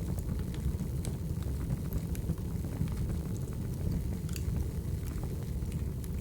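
Wood fire burning: a steady low rumble of the flames with scattered sharp crackles and pops from the burning logs.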